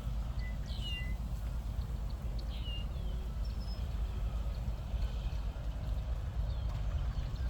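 Wind blowing over grain fields and buffeting the microphone with a steady low rumble. Small birds chirp over it in short, falling chirps every second or so.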